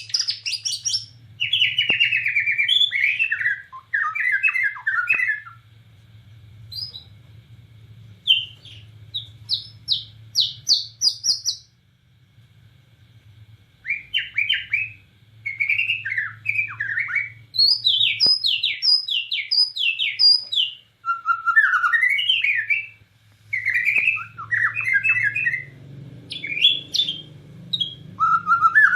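White-rumped shama (Borneo murai batu) singing in loud bursts of varied whistled phrases, with short pauses between them. One run of notes steps upward in pitch, and later comes a fast series of repeated notes.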